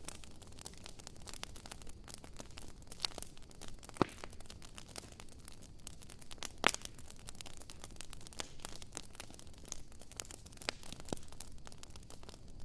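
Wood fire crackling: a steady scatter of small ticks and snaps, with two sharper pops, one about a third of the way in and a louder one about halfway.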